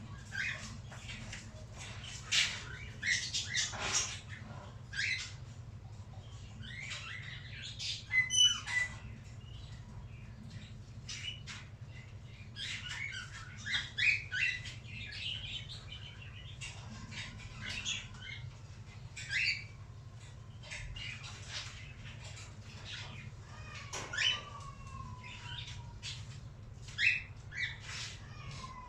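A cockatiel chirping and calling in short bursts, with fluttering wingbeats, scattered all through; a few short gliding whistles stand out.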